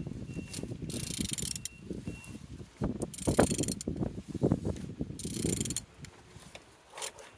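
Opel A16XER four-cylinder engine being turned over by hand with a wrench. Its internals click and knock as the crank rotates, broken by three short rasping bursts like a ratchet clicking back.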